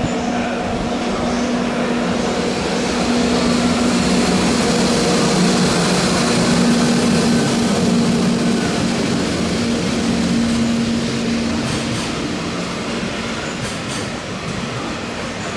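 Freight train of container and tank wagons rolling past, a loud steady rumble of wheels on rail with a low hum that fades out about two-thirds of the way through. A few sharp wheel clicks come near the end.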